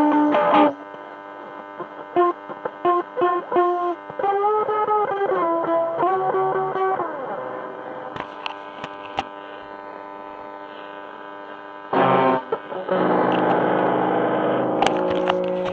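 Distorted electric guitar: short picked notes with pitch slides, a long note left to fade, then a loud chord struck about twelve seconds in.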